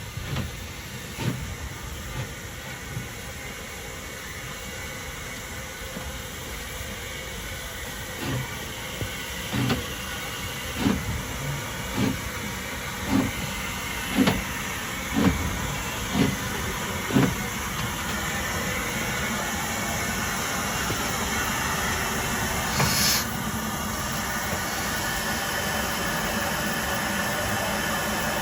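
Furness Railway No. 20, an 1863 0-4-0 steam locomotive, moving off: slow exhaust beats about one a second, quickening slightly, then a brief sharp hiss of steam and a steady running noise that grows louder.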